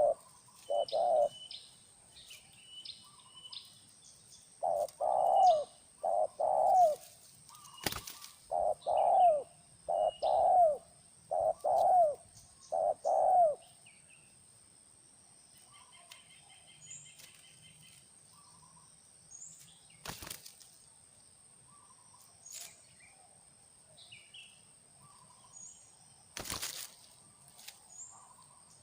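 Spotted dove cooing: a run of repeated low coos, each note dipping slightly in pitch, that stops about halfway through. Faint high chirps of small birds and a few short sharp sounds follow.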